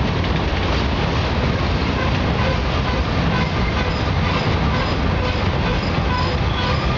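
Union Pacific mixed freight train rolling past, steel wheels rumbling steadily over the rails, with short high wheel squeals in the second half.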